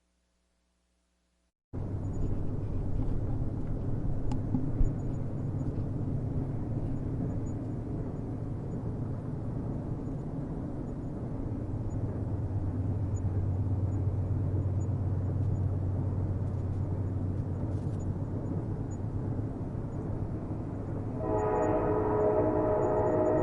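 Train running on the rails, a steady low rumble, after a short break of silence at the very start. Near the end a train horn begins sounding, a steady chord of several tones.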